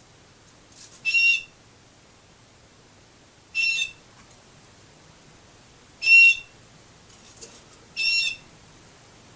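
A canary calling: one short, steady note repeated four times, about every two to two and a half seconds.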